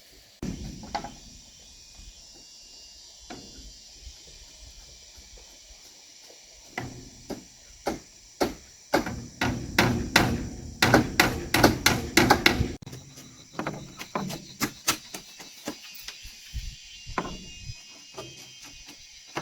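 Repeated hand-tool strikes on wood, like hammering: scattered knocks at first, then a fast dense run of blows about nine seconds in that stops suddenly, then slower blows again. A steady high hiss runs underneath.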